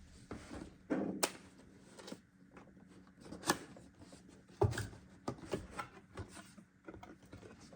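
Cardboard box and packaging of a DeepCool LM240 liquid CPU cooler being opened and handled: a few scattered knocks and clicks with light rustling between them.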